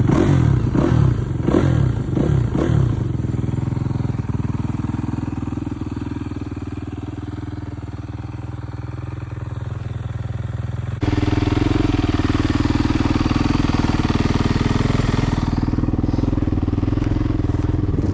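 Freshly rebuilt Yamaha YZ450F four-stroke single-cylinder dirt bike engine, revved lightly a few times and then settling to a steady idle. The idle jumps suddenly louder about eleven seconds in.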